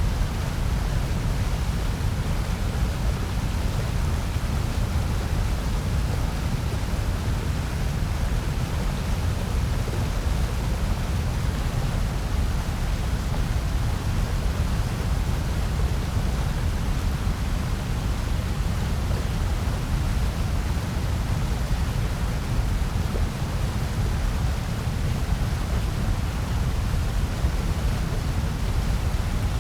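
Steady, unchanging generated noise played as a white noise track for sleep or focus: an even hiss with most of its weight in a deep low rumble.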